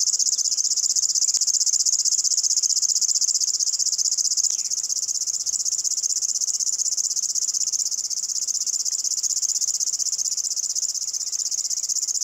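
River warbler (Locustella fluviatilis) singing its cricket-like song: an unbroken, high-pitched dry chirring made of very rapid pulses, dropping a little in level about four and a half seconds in.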